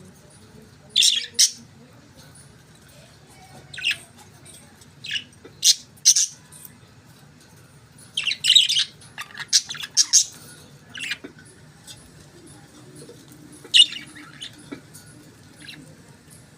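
Budgerigars chirping and squawking in short, sharp calls that come in scattered clusters, over a faint steady low hum.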